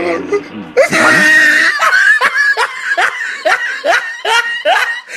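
Loud laughter, a rapid run of short falling 'ha' sounds about three a second, starting about a second in.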